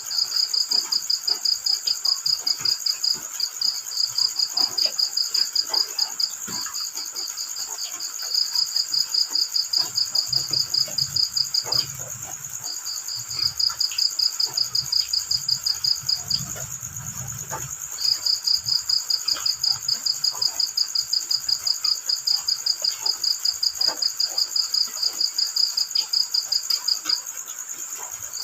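Cricket chirping in long runs of rapid, evenly spaced pulses, broken by a few short pauses, over a steady high insect drone. Scattered light taps of light rain fall throughout.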